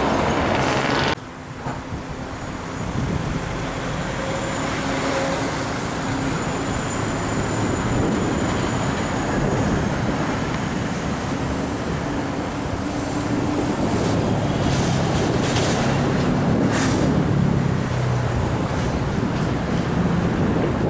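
Heavy vehicle traffic passing close by: a steady rumble of truck engines and tyres that drops off sharply about a second in, then builds again and is loudest in the second half.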